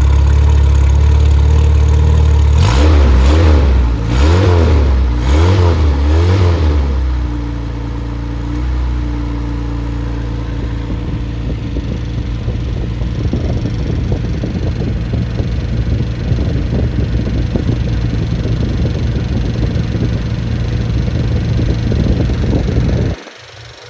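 Rebuilt Triumph Spitfire 1500 inline four-cylinder engine running warm on a test stand: the throttle is blipped three times, each rev rising and falling, then it settles into a steady idle. The engine is switched off near the end, and the sound stops abruptly.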